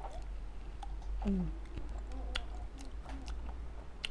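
A person chewing a sweet cherry close to the microphone, with wet mouth clicks and smacks throughout. A short falling hum comes about a second in.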